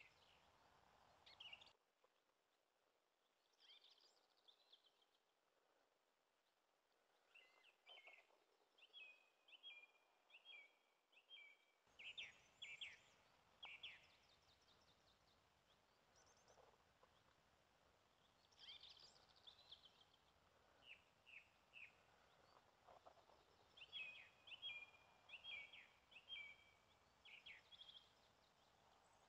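Faint songbirds singing and chirping: short, quickly repeated high phrases and trills from several birds, over a soft background hiss.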